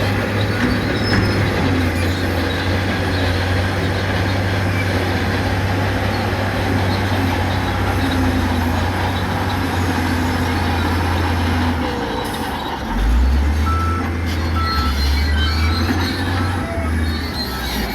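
Heavy diesel earthmoving machinery working, its engine running steadily with a deep hum. About two-thirds of the way through, the engine note changes and grows louder, and a few short high beeps sound.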